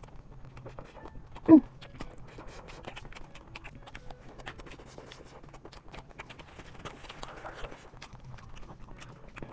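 Chewing and crunching of crisp chatpatey (spiced puffed rice) and pani puri shells, picked up close by a clip-on mic: many small, irregular crackles and clicks. A short hummed vocal sound comes about one and a half seconds in.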